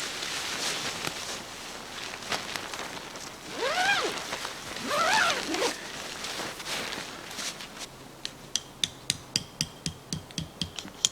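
Tent fabric and gear being handled while pitching a tent: scraping and rustling, then two squeaks about four and five seconds in that rise and fall in pitch. From about eight seconds there is a regular run of sharp clicks, about three a second.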